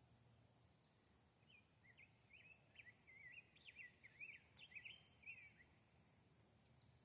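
Faint songbird singing: a quick run of chirping, warbling notes from about a second and a half in until near six seconds, over a quiet outdoor hiss. A few faint sharp clicks sound in the middle of the song.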